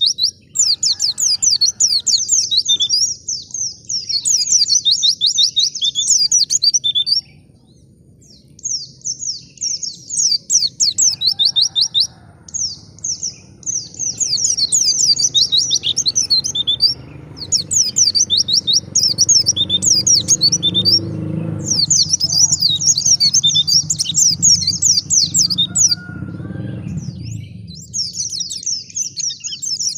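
White-eye (pleci) singing: fast, high twittering song phrases in bursts of several seconds, with brief pauses between them. A faint low rumble sits under the song from about halfway through until near the end.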